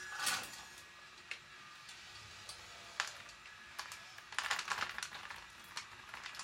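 Radio-controlled scale construction models at work, giving scattered sharp clicks and knocks with a dense burst of clattering about four and a half seconds in.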